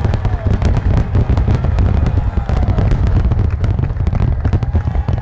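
Fireworks finale barrage: many aerial shells bursting in quick succession over a continuous deep rumble, with crackling throughout.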